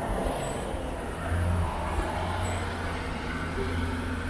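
Rolls-Royce Phantom pulling away from the curb: a low, steady engine hum that swells about a second in, over general street noise.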